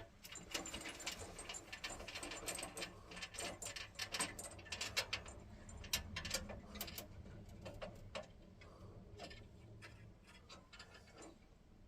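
Faint, irregular small clicks and light metallic ticks of hand work on boiler parts, with a low steady hum underneath.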